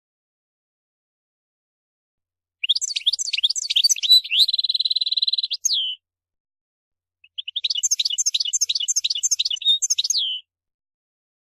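European goldfinch singing two rapid phrases of quick, high twittering notes. The first includes a buzzy trill held for about a second, and the phrases are separated by short silences.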